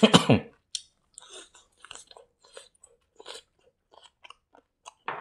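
Close-miked chewing of a mouthful of fried rice: short, irregular wet and crunchy mouth noises, with a sharper crunch near the end.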